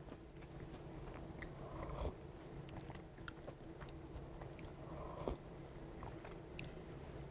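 Faint mouth sounds of a person eating cereal in milk and drinking the chocolate milk from the bowl: soft chewing and small clicks, with two slightly louder gulps about two and five seconds in.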